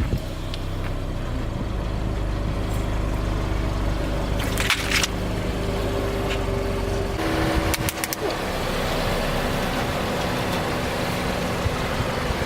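Car engine running at low speed, with a few short crunching cracks as the tyres roll over something, about five and eight seconds in; the engine's tone shifts about seven seconds in.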